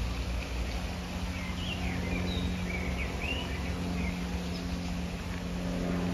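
A small bird singing a short run of quick chirps and whistles, from about a second and a half to three and a half seconds in, over a steady low rumble and hum of background noise.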